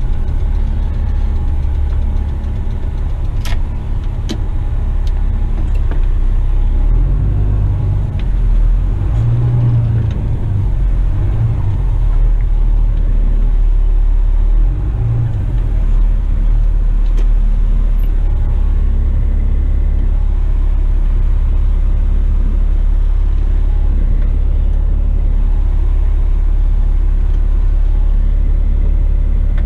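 Western Star tipper truck's diesel engine running, a steady deep rumble heard from inside the cab, swelling a few times partway through. A couple of sharp clicks come a few seconds in.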